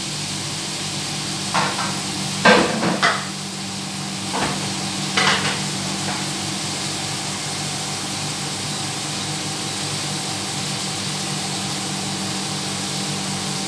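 Tomato sauce sautéing in a hot pan: a steady sizzle with a steady low hum underneath, and a few short knocks in the first five seconds or so.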